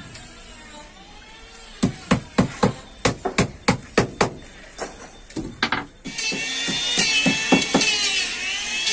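Hammer blows in a truck body workshop, struck about three times a second for a few seconds, followed about six seconds in by a loud, steady rasping noise that wavers in pitch.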